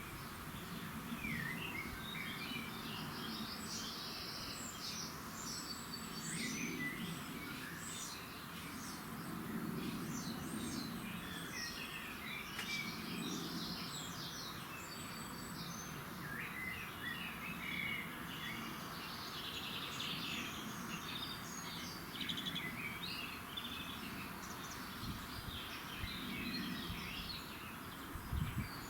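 Several songbirds chirping and singing in a dawn chorus, many short overlapping calls and trills, over a steady low background hiss. A brief low thump near the end.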